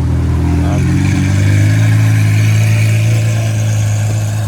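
A car engine running loud and steady, its pitch shifting briefly about a second in before it settles again.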